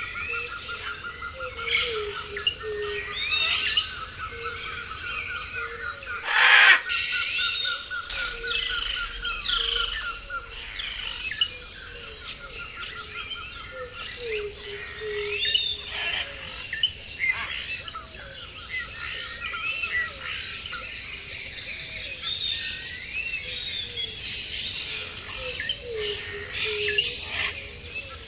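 Many birds chirping and calling over one another: busy high chirps and warbles, a fast steady trill, and a lower swooping call that repeats every couple of seconds. About six and a half seconds in, one loud sharp noise stands out above the birdsong.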